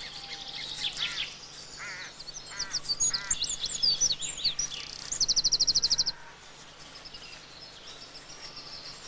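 Woodland birds calling: a few calls, then quick high chirps and whistles, then a loud rapid trill of about fifteen notes a second that stops about six seconds in, leaving fainter birdsong.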